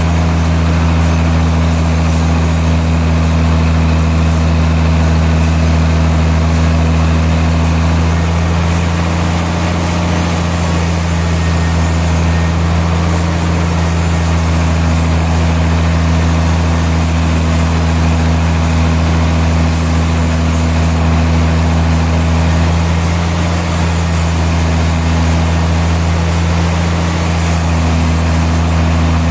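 Sawmill machinery running steadily at an even speed with a constant low hum, with no cut being made.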